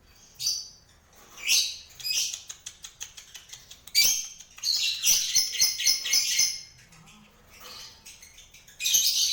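Parblue lovebird giving shrill chirping calls in short bursts, with a longer run of rapid chattering in the middle.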